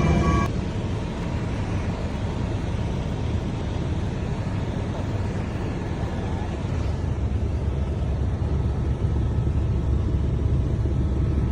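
Helicopter in flight: a steady, heavy low rumble of engine and rotors. Music cuts off about half a second in.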